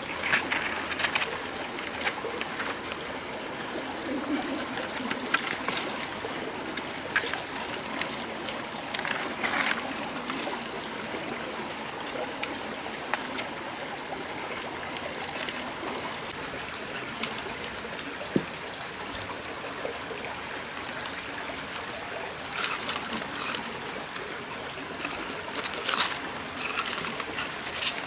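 Stream water running and trickling steadily, with scattered short, sharp sounds.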